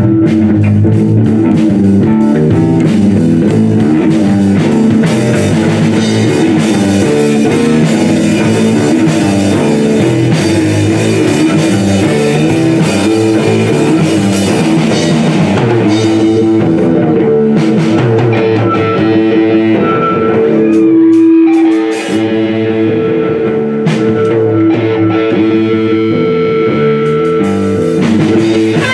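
A live rock band playing an instrumental passage on electric guitar, bass and drum kit. About two-thirds of the way in the cymbals drop back and a held guitar note rings out before the full band picks up again.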